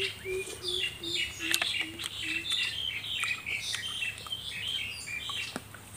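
Small birds chirping over and over in the surrounding trees, with scattered sharp clicks and a few short low hums in the first couple of seconds.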